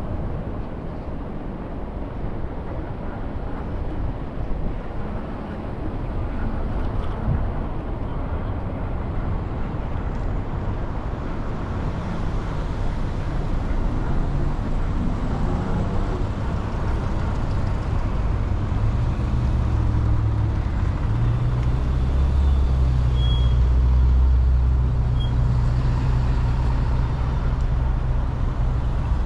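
City street traffic noise heard from a moving scooter, a steady rushing haze of passing vehicles and wind. About two-thirds of the way in, a low, steady engine drone comes in and stays loud to the end.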